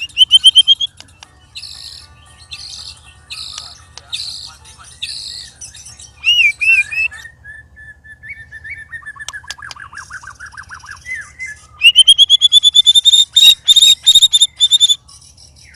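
White-rumped shama singing a loud, varied song: a rising whistle, then a string of about five repeated notes, a quieter warbling trill in the middle, and near the end a fast run of loud repeated rising notes.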